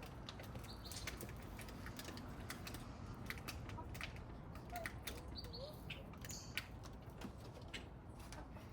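Birds chirping briefly a few times over scattered small clicks and scrapes of hand garden tools working the soil.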